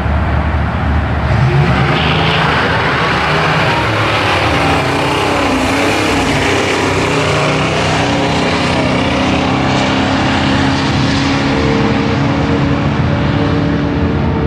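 Car engine running loud, its pitch rising and falling over the first few seconds, then holding steady.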